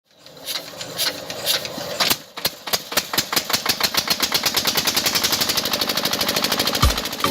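A small engine starting up: its knocking beat picks up speed over the first few seconds and settles into a fast, even running rhythm, with a low thump near the end.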